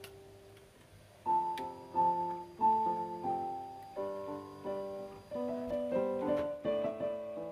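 Background music: a piano playing a gentle melody over chords, each note struck and fading, coming in about a second in after a quiet start.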